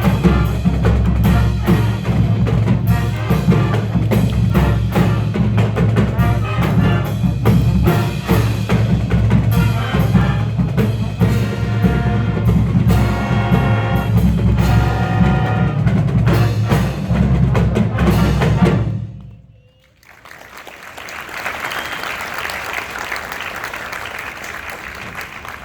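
Marching band playing with heavy drums and percussion and sustained horn chords, cutting off sharply about three-quarters of the way through. An audience then applauds.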